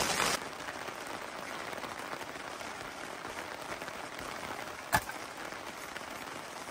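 Heavy rain and hail falling, as a steady hiss that drops abruptly to a much fainter hiss about half a second in. A single sharp knock comes about five seconds in.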